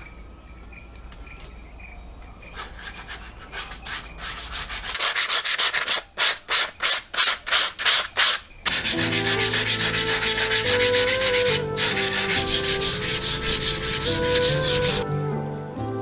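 Rhythmic hand scraping strokes on food, slow at first and then much faster. Soft melodic background music comes in under them about nine seconds in.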